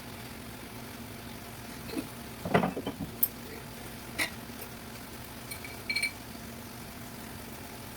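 Cooking pots and metal utensils clinking and knocking a few times, some strikes ringing briefly, over a steady low hum.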